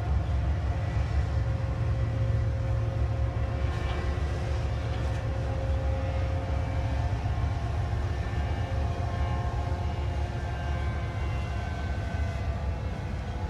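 BNSF diesel locomotives and double-stack intermodal container cars passing over an elevated rail bridge: a steady low rumble with faint steady tones above it.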